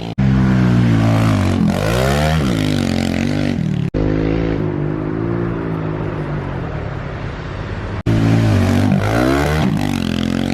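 Kawasaki KLX110 pit bike's single-cylinder four-stroke engine revving up and down as it is ridden. The sound breaks off abruptly about 4 s in and again about 8 s in, each time resuming at a different engine speed.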